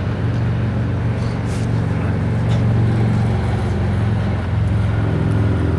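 Union Pacific freight train rolling past with a steady low diesel drone and a few faint clicks.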